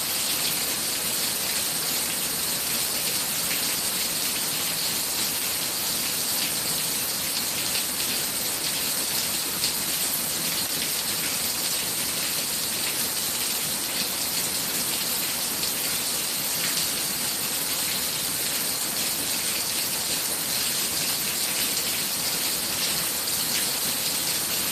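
Torrential thunderstorm downpour: heavy rain falling hard and steady, a continuous dense hiss.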